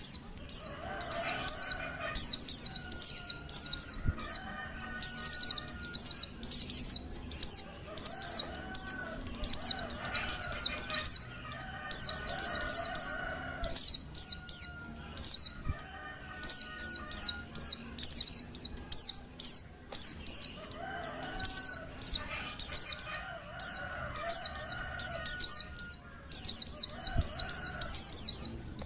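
Female white-eye (pleci) calling: rapid runs of high, downward-slurred chirps, each run about a second long, repeating with short pauses. Fainter, lower calls sound underneath.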